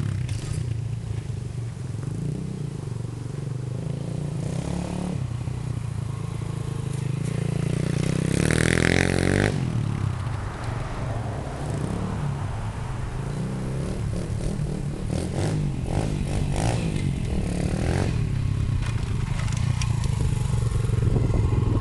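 New Piranha 125cc pit bike's single-cylinder four-stroke Lifan engine running while it is being run in, revving up and down a couple of times with a rising and falling note.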